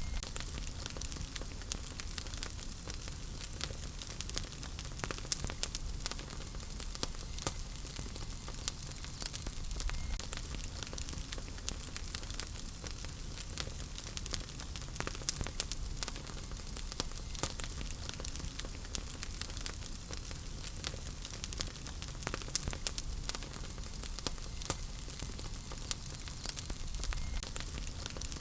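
Wood fire crackling steadily: a constant hiss with frequent sharp pops and snaps scattered throughout, over a low rumble of the flames.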